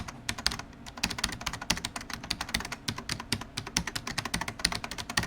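Typing on a keyboard: a fast, irregular run of sharp clicks, several a second.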